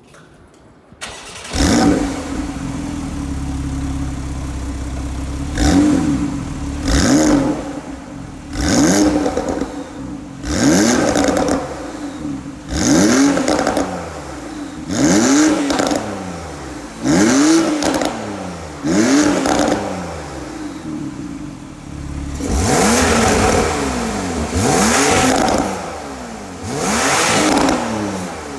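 Porsche 991.2 Carrera 4S twin-turbo flat-six with sports exhaust starting up about a second in, flaring, then settling to a steady idle. It is then revved in a series of about a dozen quick throttle blips, the exhaust note rising and falling every second or two, with a few longer, held revs near the end.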